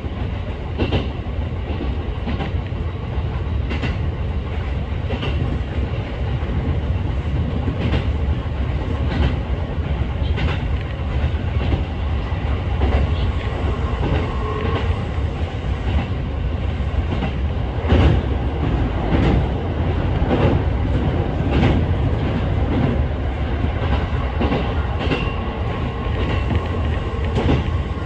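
Kintetsu electric train running along the line, heard from inside the front car: a steady low rumble with irregular clacks of the wheels over rail joints. The clacks come closer together and louder about two-thirds of the way through.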